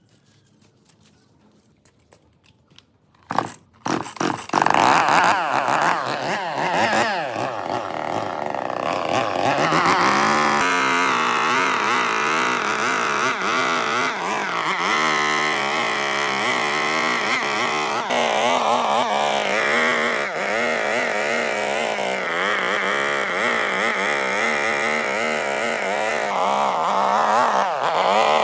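An engine starts about three seconds in, with a couple of short bursts before it catches, then runs continuously at about a steady pitch that wavers up and down.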